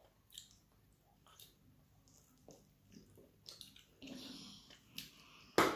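Close-up eating mouth sounds while fried mackerel is eaten by hand: chewing and wet lip smacks with scattered small clicks, and one louder, sharp smack near the end.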